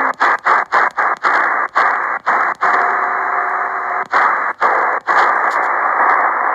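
Amateur radio HF receiver hissing through its speaker in a narrow single-sideband passband. The hiss cuts out briefly again and again, and two steady carrier tones sound for a second or so in the middle. The receiver is left in lower sideband on the 20 m band, so no upper-sideband voice comes through clearly.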